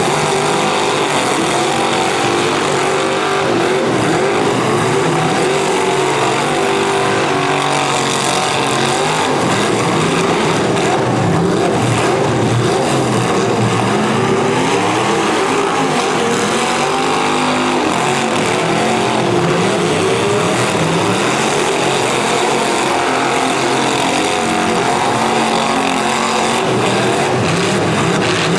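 Several V8 demolition derby cars' engines running and revving at once, their pitches rising and falling and overlapping as the cars accelerate and back off.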